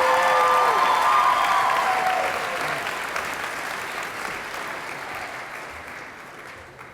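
Audience in a hall applauding, with a few cheers at the start, the clapping dying away gradually over several seconds.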